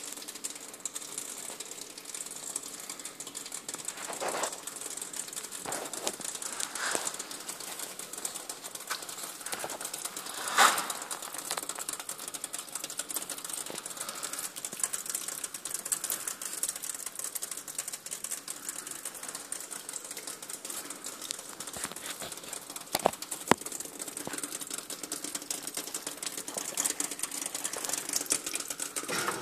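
Wood fire crackling in an open fireplace: a dense, steady run of small crackles with a few louder pops, the loudest about ten seconds in and two sharp snaps a little past the middle.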